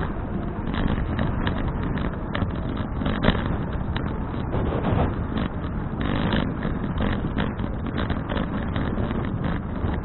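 Wind and ride noise rushing over a bicycle-mounted action camera's microphone as the folding bike rolls along, with frequent small rattles and knocks from the bike and road; a sharper knock comes about three seconds in.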